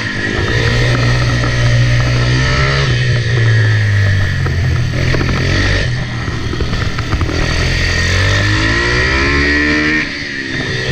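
Kayo 160cc pitbike's single-cylinder four-stroke engine at full throttle, revving up and falling back repeatedly as the bike accelerates out of corners and backs off into them.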